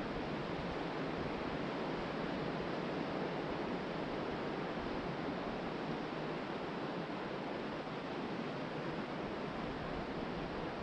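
Ocean surf breaking and washing steadily on a sandy beach, mixed with wind.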